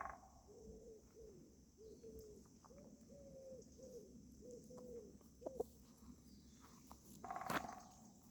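Faint, repeated cooing of a pigeon or dove, short low notes coming about every half second, with one louder call from a bird about seven and a half seconds in.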